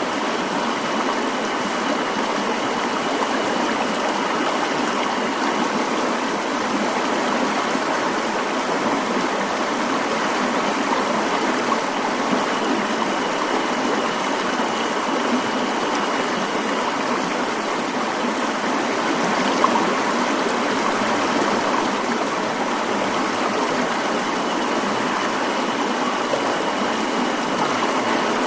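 Mountain stream flowing steadily, an even rush of water with no pauses.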